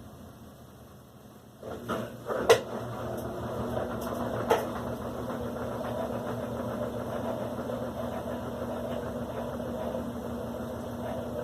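Electrolux LAC16 top-loading washing machine starting its spin on the silent cycle: the motor kicks in with a few knocks, the loudest about two and a half seconds in, then runs on as a steady, low hum. On this cycle the motor turns slowly to keep quiet, so the spin leaves the clothes dripping wet.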